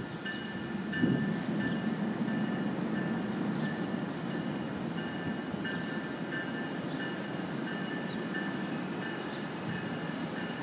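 Passenger train approaching slowly: a steady low rumble that swells about a second in and holds, with thin high-pitched tones coming and going above it.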